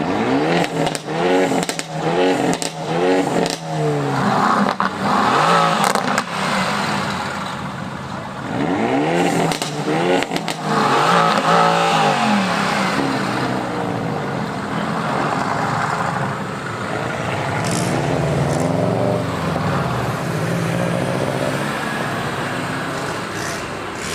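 Tuned performance car exhaust being revved in repeated quick blips, the pitch rising and falling with each, with crackling pops and burble as the revs drop. A fast run of revs comes at the start, another a few seconds later, and slower swells near the end.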